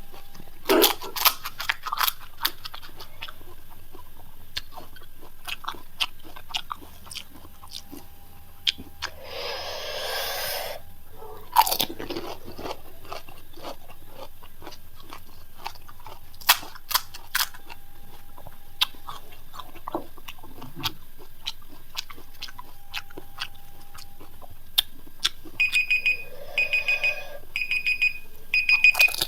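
Crisp panipuri shells being bitten and crunched, with chewing. About ten seconds in there is a brief hissing noise, and from near the end an electronic timer beeps repeatedly, about one beep every three quarters of a second, marking the end of the timed challenge.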